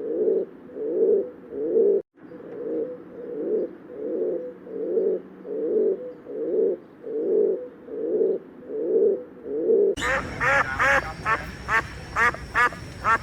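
Pigeons cooing in a steady run of low calls, about three every two seconds. After a cut about ten seconds in, ducks quack rapidly, several calls a second.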